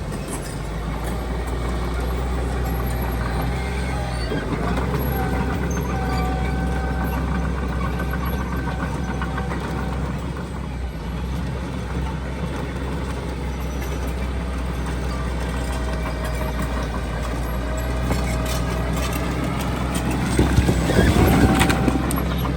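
Diesel engines of heavy earthmoving machinery running steadily, with a faint high whine over the low hum and a louder rush of noise near the end.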